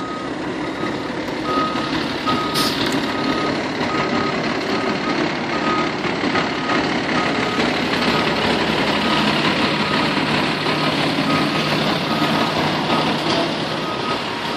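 Fire engine backing up, its reverse alarm beeping steadily about one and a half times a second over the running engine.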